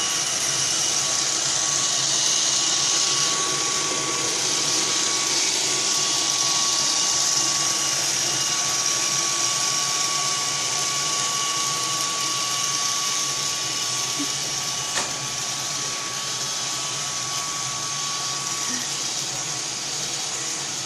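Roomba robot vacuum running: a steady whirring hiss with a thin steady whine, and a single sharp click about fifteen seconds in.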